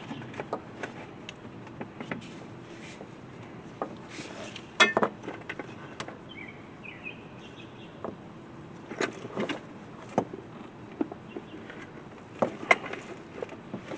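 Scattered clicks and light knocks of engine intake parts and tools being handled, with a louder rattling clatter about five seconds in.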